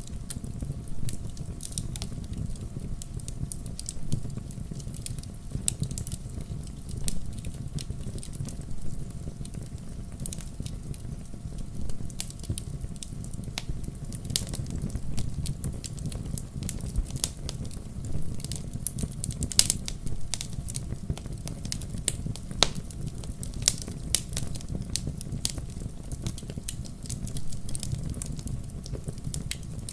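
Wood fire burning in a fireplace: a steady low rumble of flames with irregular crackles and now and then a louder snap.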